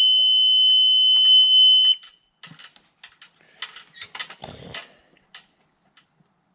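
Boom lift's warning buzzer sounding one steady, high, loud beep for about two seconds, then cutting off. Scattered clicks and rattles follow.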